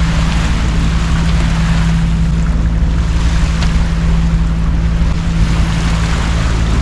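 Boat under way: a steady engine hum under rushing water and wind on the microphone.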